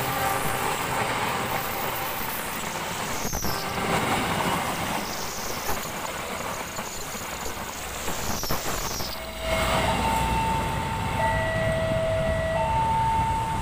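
Passenger coaches of an express train rolling past at speed, a steady rush of wheel-on-rail noise. After an abrupt change about nine seconds in, a level-crossing warning alarm sounds two alternating electronic tones, low then high, each held a little over a second, warning of an approaching train.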